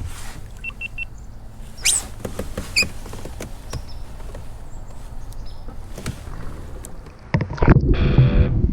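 A low rumble with scattered clicks and knocks and a few short high chirps, then guitar music starting suddenly about seven seconds in.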